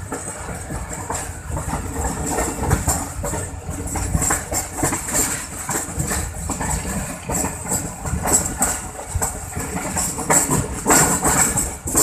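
Passenger train running slowly round a curve, heard from an open carriage door: wheels clattering over the rail joints under a rushing rumble, with a thin steady high tone. The clatter grows louder near the end.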